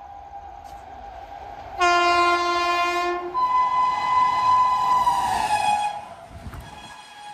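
Electric locomotive horn of a passing express train: two long blasts, the first starting about two seconds in, the second higher and dropping in pitch near its end as the train goes by at speed.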